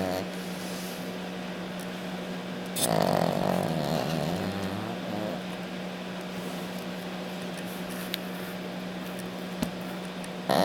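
Sleeping dog snoring: one long, loud snore about three seconds in, then a quieter stretch of slow breathing. A steady low hum runs underneath.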